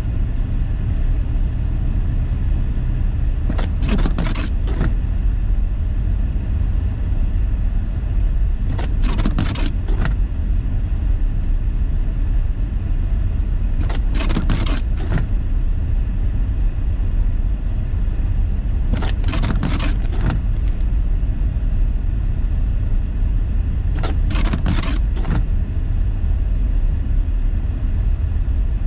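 Car cabin noise while driving on a snowy road: a steady low rumble of engine and tyres. The windshield wipers make a short burst of clicks and thumps about every five seconds, an intermittent sweep.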